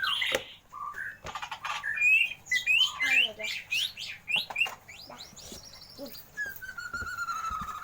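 Caged birds chirping: a quick run of short, sharp chirps, then one long, slowly falling whistled note near the end.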